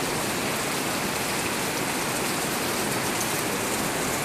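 Heavy rain pouring steadily, a dense even hiss of rain on surfaces, with water overflowing the gutters.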